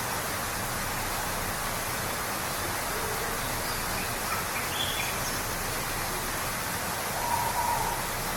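Steady rushing of a waterfall, with a few short bird calls over it, the clearest about seven seconds in.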